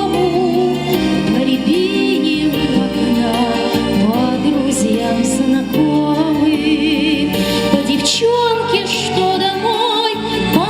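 A song: a woman's voice singing a melody with vibrato over instrumental accompaniment.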